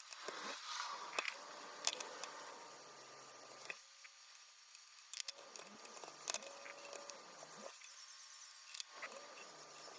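Faint, irregular light clicks and taps of small parts and tools being handled while working on a Canon PowerShot S110 compact camera.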